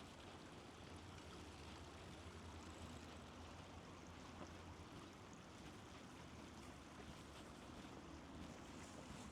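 Faint, steady rush of flowing river water, with a low hum underneath that fades out about halfway through.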